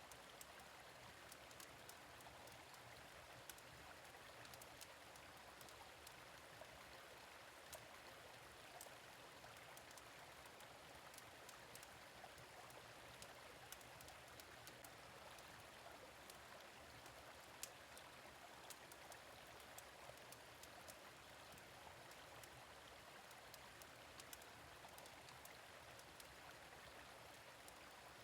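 Faint, steady running water of a gentle stream, with small crackles and pops of a wood fire scattered irregularly throughout.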